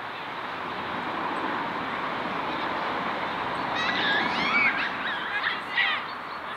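Birds calling, a quick run of short chirping calls in the second half, over a steady background hiss.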